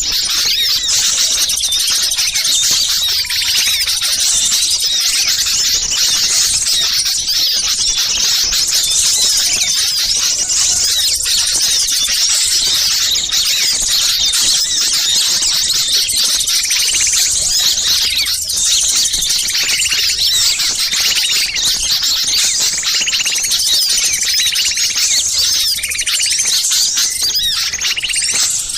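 Dense chorus of many small songbirds chattering and calling at once, high-pitched and without a break: an agitated ('ribut') small-bird lure recording of the kind played to draw wild birds in.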